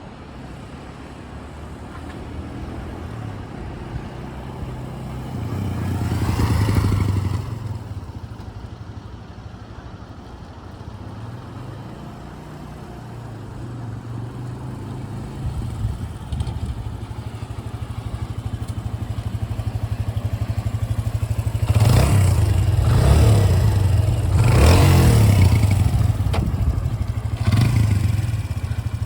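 Suzuki GZ125HS's 125 cc single-cylinder four-stroke engine running, growing louder about six seconds in, then again with several rises and falls through the last third.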